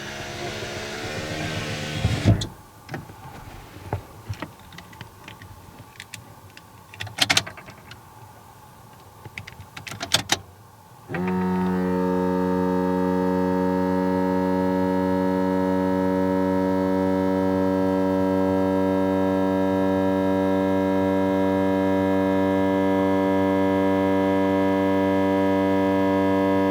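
Abnormal noise from a 17-series Toyota Crown: a brief electric motor whir and a few clicks, then a loud, steady low hum with many overtones that holds for about fifteen seconds and cuts off abruptly. The owner likens this drone to a bullfrog's call.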